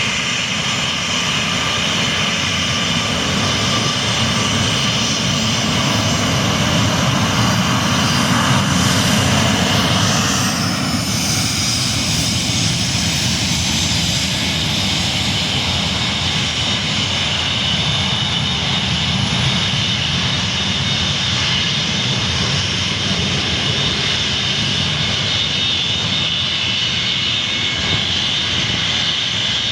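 Boeing airliner's jet engines running at takeoff power: a steady rushing noise with a high whine on top. It is loudest about nine seconds in, then eases slightly and holds steady.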